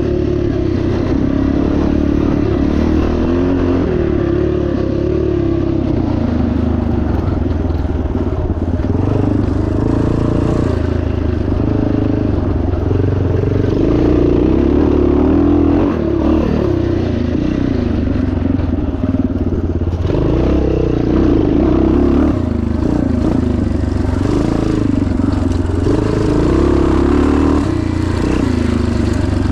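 1977 Yamaha TT500's single-cylinder four-stroke engine running hard under constantly changing throttle, its pitch rising and falling without a break.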